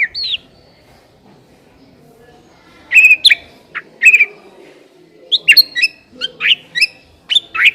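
White-rumped shama (murai batu) singing in sharp whistled chirps: one gliding note at the start, a short burst of calls about three seconds in, then a fast, dense run of chirps and whistles from about five seconds in.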